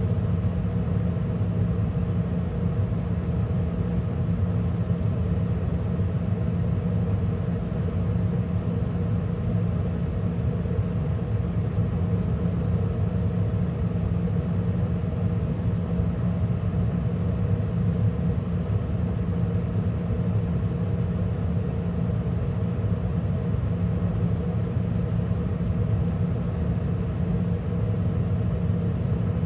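2013 Carrier gas furnace running steadily in mid-cycle, burners lit with the inducer and circulation blower running: an even, unchanging hum and rush of air with a low steady drone.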